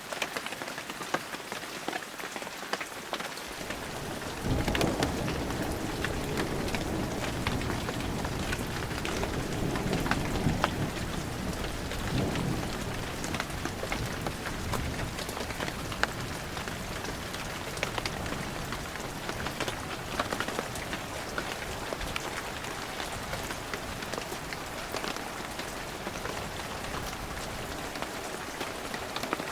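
Heavy rain falling steadily, with many sharp drop impacts close by. About four seconds in, a low rumble of thunder begins, swells, then slowly fades.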